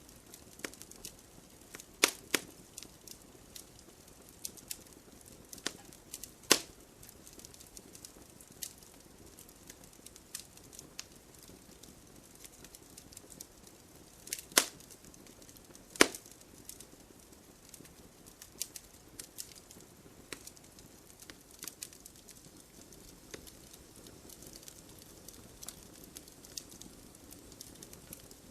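Wood fire crackling steadily, with frequent small snaps and a handful of louder pops about two, six and a half, fourteen and a half and sixteen seconds in, over a soft low hiss.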